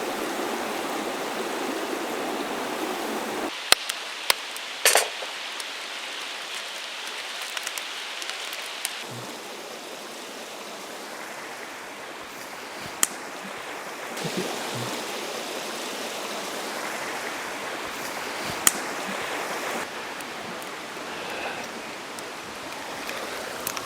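Steady sizzling hiss of supper cooking in a pan over a campfire, with a few sharp clicks here and there.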